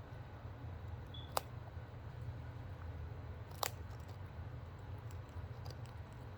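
Two sharp, short clicks about two seconds apart over a steady low hum.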